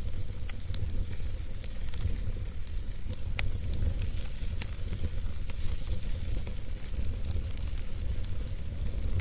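Wood fire burning in a fireplace, with a steady low rumble of flame and scattered sharp crackles and pops.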